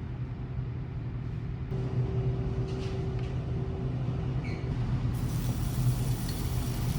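Ferry's engines droning on board: a steady low hum with a faint higher tone above it, and a hiss that grows louder about five seconds in.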